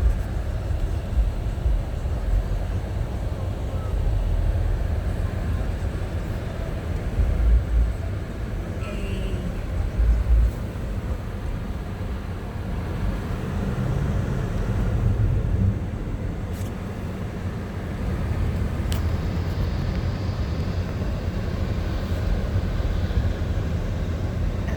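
A car driving, a steady low rumble of engine and road noise, with two brief heavier low swells about a third of the way in.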